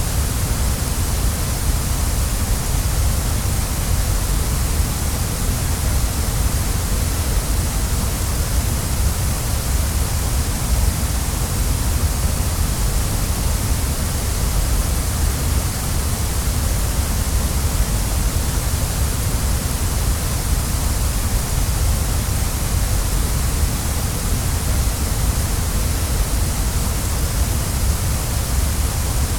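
Waterfall: water falling in a steady, unbroken rush, a deep rumble with a bright hiss over it.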